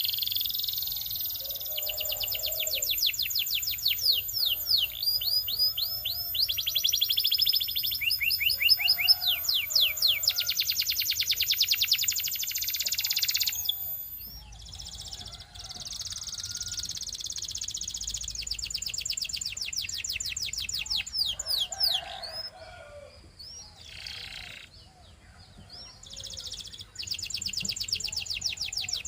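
Belgian canary singing: long, fast trills of rapidly repeated high notes, run after run. The song pauses briefly about halfway through and again for a few seconds near the end.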